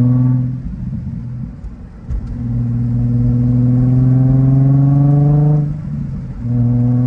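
Nissan 350Z Nismo's V6 through its stock Nismo exhaust and Tomei single-exit axle-back, pulling under throttle with the engine note climbing steadily. The driver lifts off about half a second in, with a quieter stretch of a second and a half, then pulls again, lifts near the end and gets back on the throttle.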